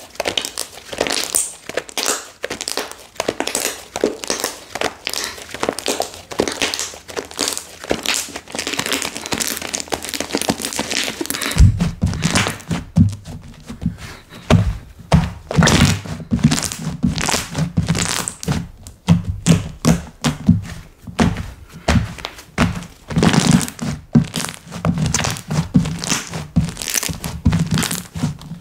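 Slime being pressed, poked and squished by hand, giving rapid crackling clicks. About twelve seconds in, the handling turns heavier, with deeper thuds mixed into the clicking.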